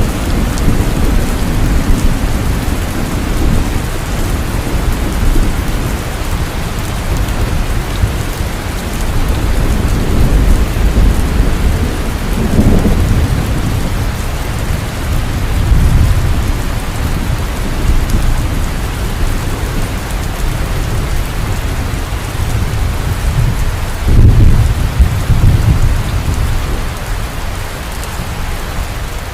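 Heavy, steady rain with rolling thunder rumbling underneath, swelling several times; the loudest rumbles come a little before halfway and about four-fifths of the way through.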